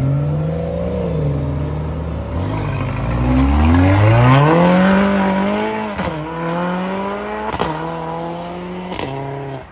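A sports car accelerating hard away, its engine note climbing steeply in pitch. It then shifts up three times, about a second and a half apart, each shift a sharp crack followed by a drop in pitch before the engine climbs again.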